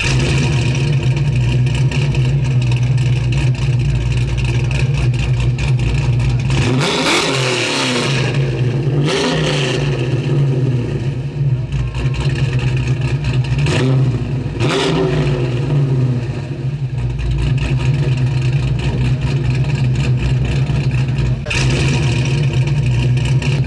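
Car engine running at a steady idle, with several brief swells where the engine pitch rises and falls, about seven, nine, fourteen and fifteen seconds in.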